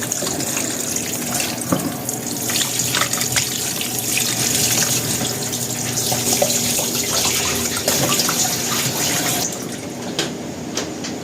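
Kitchen tap running into a sink while a slab of raw pork belly is rinsed under it, with splashing and small knocks, the flow thinning a little near the end.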